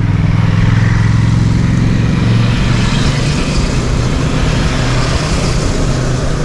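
Motorcycle engine pulling hard up a steep grade as it passes, a steady low engine note with road and wind hiss growing in the middle.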